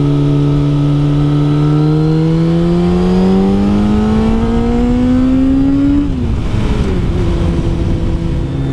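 Kawasaki ZZR600's inline-four engine under way: the revs hold steady, then climb for several seconds under acceleration, and drop sharply about six seconds in before settling lower, with wind rumble underneath.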